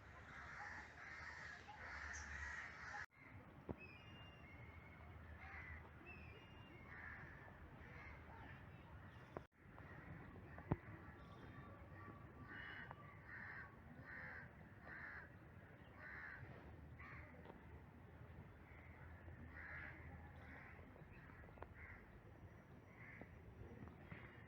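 Faint crows cawing again and again, with a few higher chirps of small birds in between. A single sharp click about ten seconds in.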